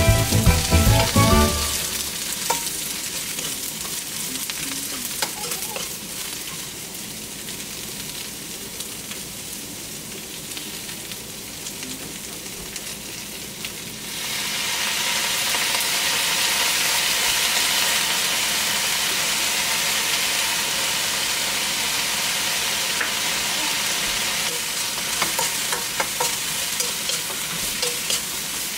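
Sliced snake gourd and pork frying in a wok, sizzling steadily while a spoon scrapes and taps against the pan. About halfway through, the sizzle jumps louder and stays loud as fish sauce is poured into the hot pan.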